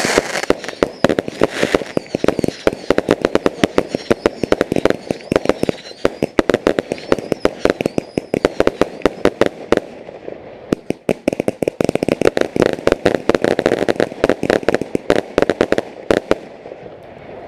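Fireworks going off: a dense, rapid string of cracking bangs, many a second, that stops about a second before the end.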